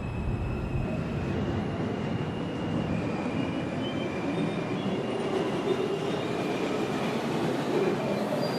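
R142 subway car running between stations: steady rumble of wheels on rail, with thin high motor tones that step up and down in pitch.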